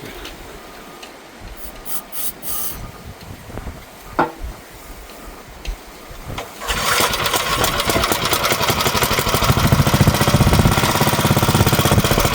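A few sharp clicks, then about seven seconds in the electric starter of a Gravely walk-behind tractor engages and cranks steadily and loudly with a fast, even pulsing. It shows the starter now turns once the battery connection is made good.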